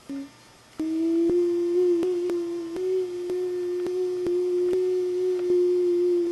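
A person humming one long, steady, slightly wavering note as a mouth-made vehicle sound effect, after a brief short hum near the start. Sharp clicks break in about every half second.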